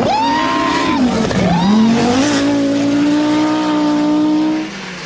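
Rally car engine at high revs. The pitch climbs, dips about a second in, climbs again and holds steady for about two seconds, then the sound drops away near the end.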